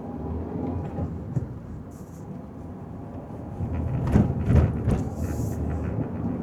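Car driving on a city street: a steady low road and engine rumble, with a cluster of sharp knocks and rattles about four seconds in.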